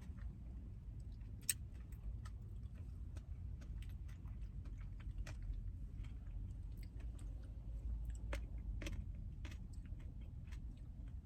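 Close-up chewing and mouth sounds of a person eating, with scattered small clicks, over a low steady rumble.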